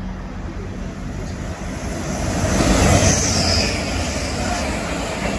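Grand Central Class 180 diesel multiple unit 180105 running past along the platform. Its noise builds to a peak about three seconds in and then fades as it goes by.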